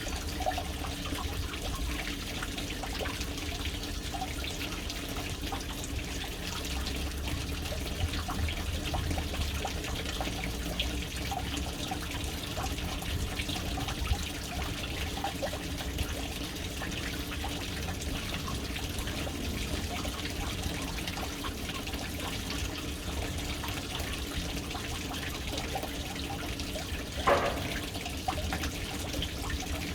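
Water trickling and splashing steadily into a household water tank, with one louder splash near the end.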